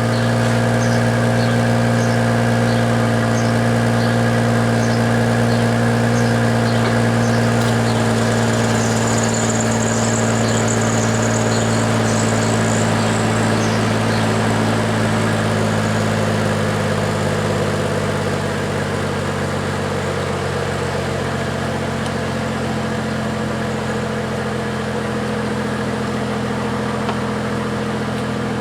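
Chevrolet Trailblazer's 4.2-litre inline-six idling through a straight-piped exhaust with the resonator removed, just after starting. The idle drops a little and quietens about two-thirds of the way through as it settles.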